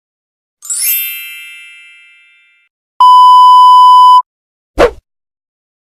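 Three stock sound effects in turn: a bright ringing chime that dies away over about two seconds; then a loud steady 1 kHz censor bleep lasting a little over a second; then a very short falling swoop near the end.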